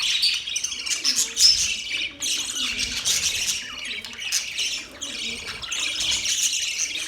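Budgerigars chattering and chirping continuously, with short squawks mixed in; the calls are high-pitched and overlap, with brief lulls.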